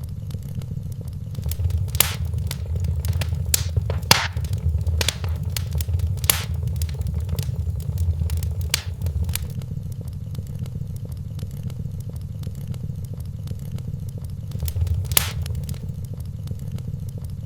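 Wood fire burning in a fireplace: scattered sharp crackles and pops over a steady low rumble of flame, busiest in the first half, with a loud single pop near the end.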